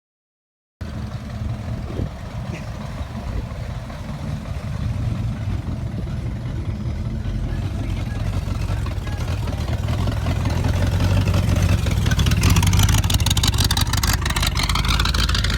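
A vehicle engine running with a steady low rumble that grows louder, then a vehicle passes close by near the end with a rush of sweeping noise. The sound starts abruptly a moment in.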